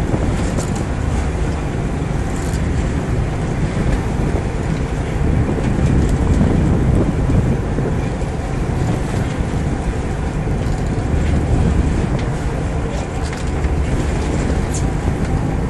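Fishing boat's engine running steadily, with water rushing along the hull and wind on the microphone.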